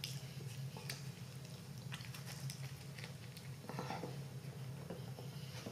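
A person chewing a mouthful of burger with the mouth closed: faint, soft, wet smacks and clicks at uneven intervals, over a low steady hum.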